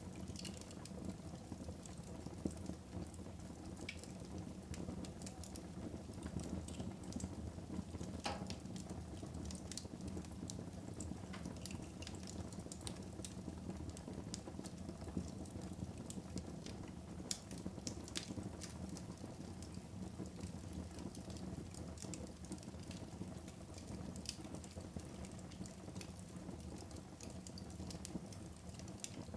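Wood fire burning in a fireplace: a steady low rush from the flames, with scattered sharp crackles and pops throughout.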